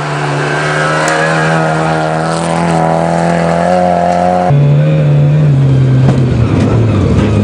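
Skoda Favorit rally car's engine under hard acceleration, its pitch climbing steadily. About four and a half seconds in the sound cuts abruptly to a car engine heard from inside the cabin, its note falling.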